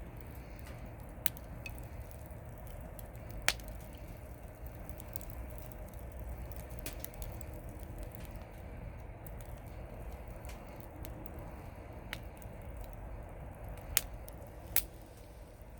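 Wood campfire crackling, with scattered small ticks and a handful of sharp louder pops, the loudest about three and a half seconds in and twice near the end, over a steady low rumble of the fire.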